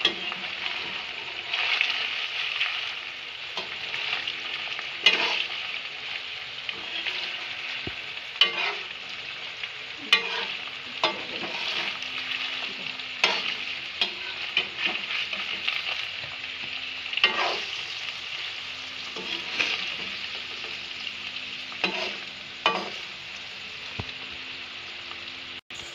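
Paneer cubes sizzling as they shallow-fry in hot mustard oil in a kadai, a steady hiss, with a spatula scraping and knocking against the pan now and then as the pieces are turned.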